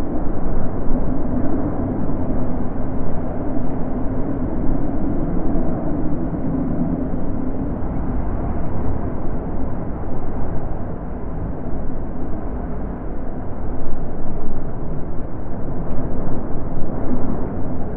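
Wind blowing in gusts, a low rushing that swells and eases, with a hollow moaning note in the first half and again near the end.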